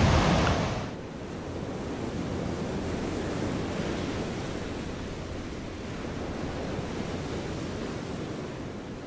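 Ocean surf washing onto a sandy beach: a steady, rushing wash, louder for about the first second, then lower and even, beginning to fade near the end.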